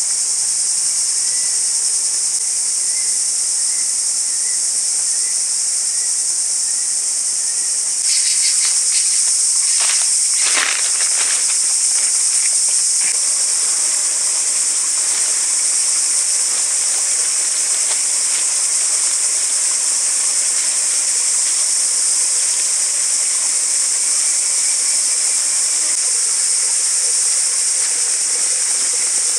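Dense, steady, high-pitched insect chorus. A run of sharp knocks and clicks comes in about eight seconds in and dies away by about thirteen seconds.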